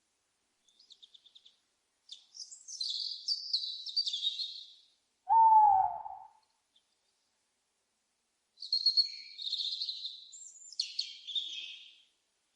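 A single short owl hoot, slightly falling in pitch and the loudest sound here, about five seconds in, between two long high-pitched phrases of small songbirds twittering.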